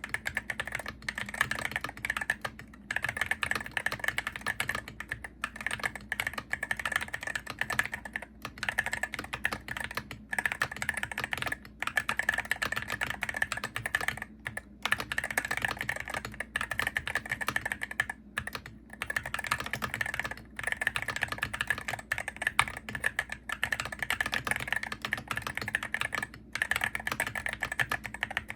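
Fast typing on a Hero68HE gaming keyboard: a dense stream of key clicks and clacks, broken by short pauses every second or two.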